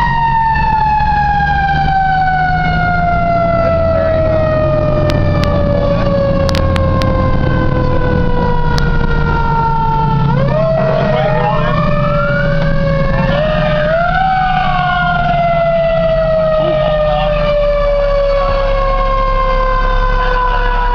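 Fire engine siren slowly winding down in pitch, spun back up sharply about halfway, then falling again, with a second siren sweeping up and down briefly just after. A truck engine's low rumble runs underneath.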